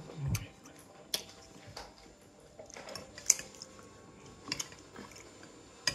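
Mouth sounds of someone chewing a mouthful of noodles: soft, scattered smacks and clicks a second or so apart.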